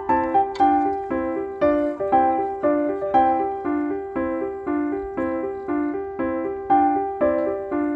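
Background piano music: a gentle repeating accompaniment with a melody on top, in an even rhythm of about two notes a second.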